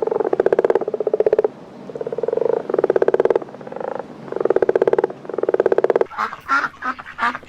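An animal calling in rattling, croak-like notes about half a second long, mostly in pairs, about seven in all. Near the end they give way to shorter, quicker calls.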